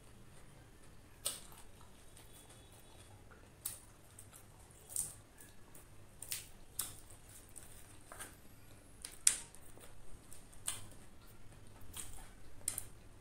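Close-miked eating sounds: chewing crisp-coated fried chicken and lettuce, with about ten sharp crunchy clicks at irregular intervals.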